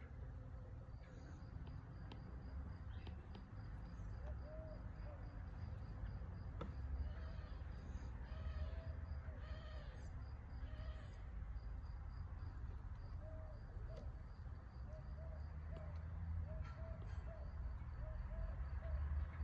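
Outdoor nature ambience: insects chirring in a steady fast pulse, with short chirping bird calls coming in runs and a constant low rumble underneath.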